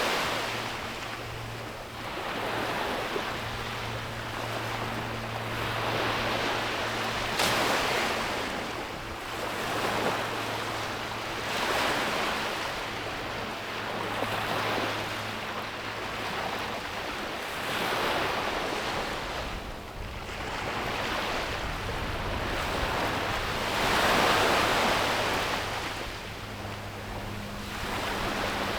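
Sea waves breaking and washing up a beach, each surge swelling and fading every few seconds, the biggest near the end. A faint steady low hum runs underneath.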